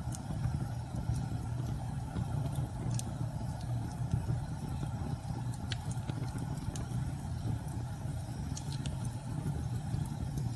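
Steady low rumble of storm wind, with a few sharp crackles and pops from a wood fire scattered through.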